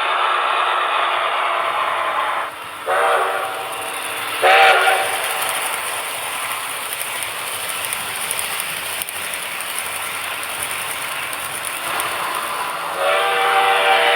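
Sound system of a Tenshodo Cantum HO-scale C62 steam locomotive model sounding its steam whistle, over steady running noise. There are two short blasts about three and four and a half seconds in, and a longer blast near the end.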